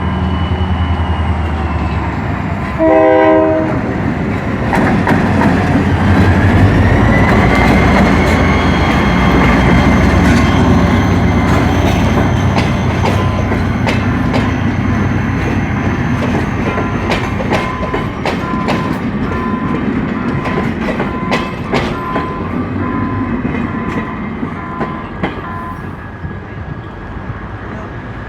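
Materfer diesel railcar pulling out: a low engine idle, a short horn blast about three seconds in, then the engine rising as it moves off. Its wheels click over rail joints. A pulsing beep sounds through the middle, and the train fades near the end.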